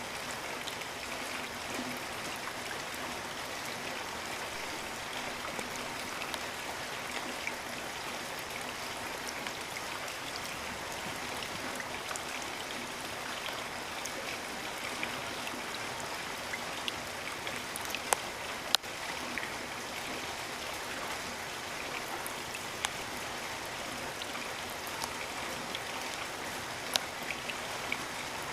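Rain falling steadily as an even hiss, with scattered sharp drops striking close by; the loudest drops come a little past halfway and again near the end.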